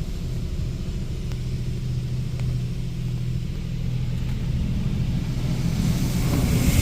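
Washworld Razor touch-free car wash humming steadily, heard from inside the car. Near the end a hiss builds up as the high-pressure water spray starts to hit the car.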